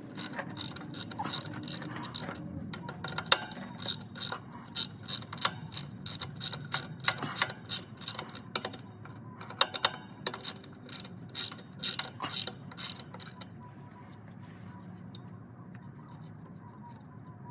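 Ratchet wrench clicking in irregular runs as a stuck bolt on the engine's flexplate is worked loose, ending in a quicker, even run of fainter clicks.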